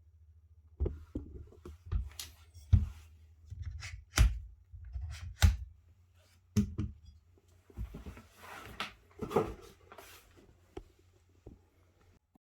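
Hands handling hard objects in a small room: a string of irregular clicks and knocks, a few of them sharp, then a stretch of rustling with more knocks, over a steady low hum that cuts off near the end.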